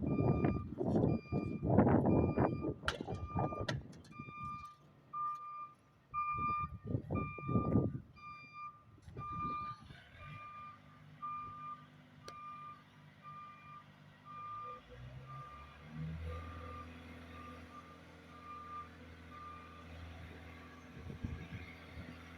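Dump truck's reversing alarm beeping, about three beeps every two seconds, stopping about twenty seconds in. The truck's engine runs underneath, its note rising around fifteen seconds in. Heavy low rumbling bursts fill the first eight seconds.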